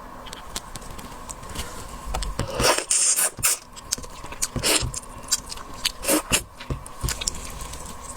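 Close-up eating sounds of raw marinated shrimp: irregular crunches and clicks of shell being bitten and pulled apart, with wet sucking and chewing, loudest in a cluster a few seconds in.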